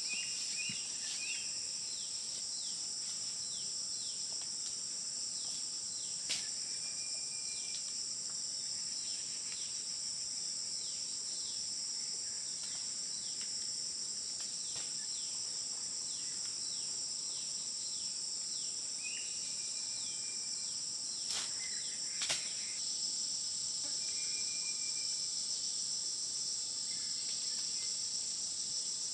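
Steady, high-pitched chorus of insects, with short chirping calls over it and a few brief clicks.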